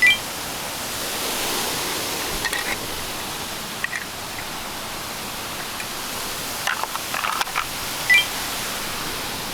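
Steady hiss with scattered small clicks and clatter, and two short high beeps, one at the very start and one near the end.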